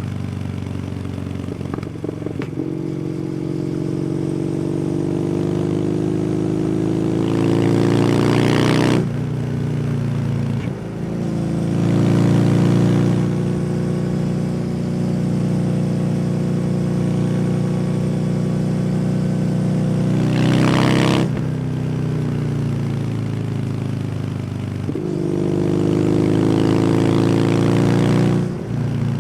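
Kawasaki W800's air-cooled parallel-twin engine through an SC Project exhaust, heard riding on the open road. The engine note climbs steadily under throttle, then drops abruptly, three times over.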